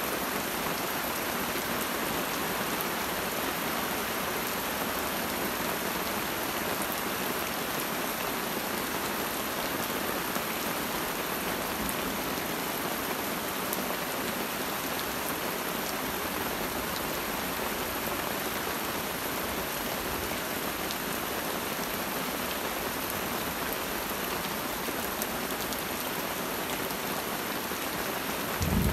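Steady rain falling through forest, an even hiss. A low rumble of thunder starts up right at the very end.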